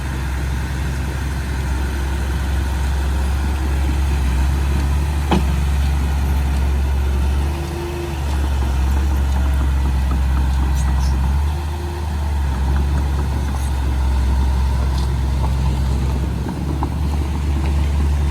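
Heavy diesel engine of a D31P crawler bulldozer running steadily at working speed, with brief dips in level about eight, twelve and sixteen seconds in.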